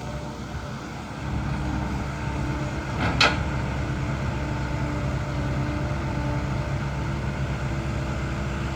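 Diesel dump truck engine running steadily, growing a little louder about a second in. A single sharp knock comes about three seconds in.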